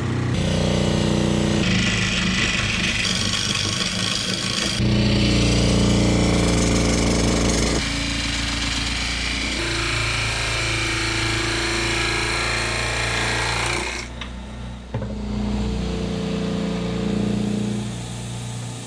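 Wood lathe running while a gouge cuts into an out-of-balance ash bowl blank: a steady motor hum under the hiss and chatter of the cut. The hum's pitch shifts abruptly several times.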